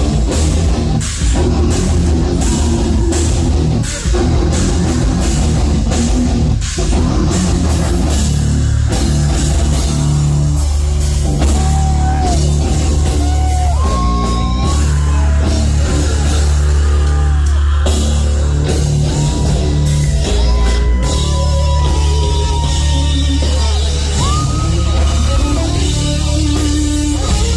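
Live heavy metal band playing loud: distorted guitars, bass and drum kit. The drumming is fast and dense for the first several seconds, then a held, sliding melody line rides over the heavy low end.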